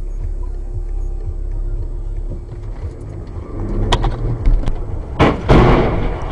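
Low rumble of a car driving, heard from inside the vehicle. There is a sharp click near four seconds in, then a loud sudden bang a little past five seconds that fades into a hiss.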